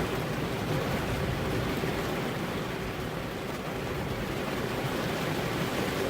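Steady rainfall: a dense, even hiss with no single drops or thunder standing out.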